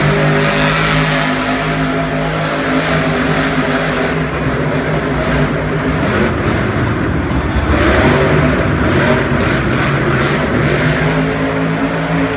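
Monster truck engine running loud and steady, revving up about eight seconds in.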